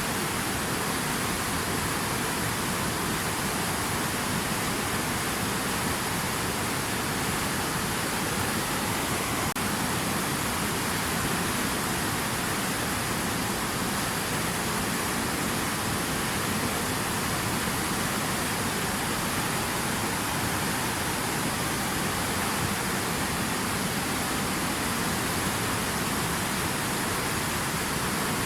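Steady rushing water, an even, unchanging hiss with no separate splashes or drips.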